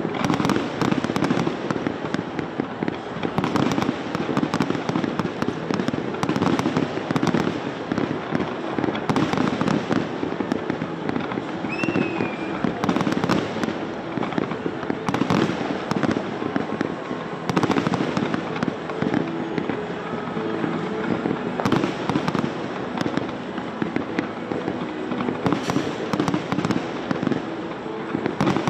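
Aerial fireworks display: a dense, continuous run of shell bursts and crackling, with many sharp bangs following one another.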